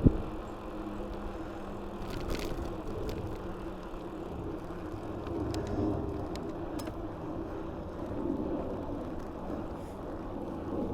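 Mountain bike being ridden: a steady rush of tyre and wind noise, with a sharp knock right at the start and scattered light ticks from the bike.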